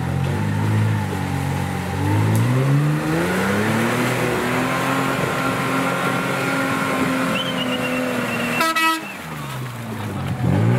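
Off-road 4x4's engine revving up and holding steady high revs under load, then dropping off abruptly with a short high-pitched blip about three-quarters of the way through, before revving up again near the end.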